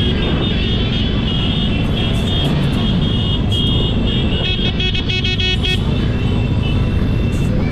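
Many motorcycle engines running together in a mass ride, a dense steady rumble, with music over it.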